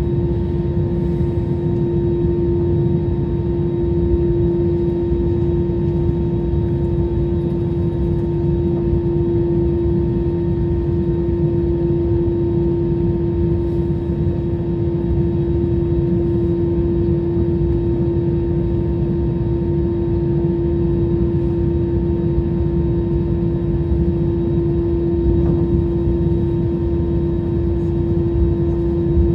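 Jet airliner cabin noise on the ground before the takeoff roll: a steady rumble with one strong droning tone, level and unchanging.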